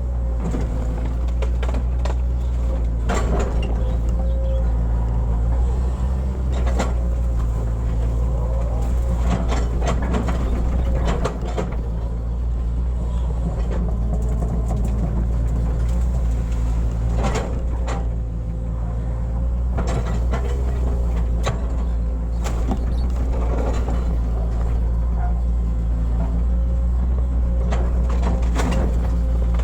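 Hitachi hydraulic excavator's diesel engine running steadily under load, with a thin steady whine, and now and then a sharp knock or scrape as the bucket works soil for a ditch.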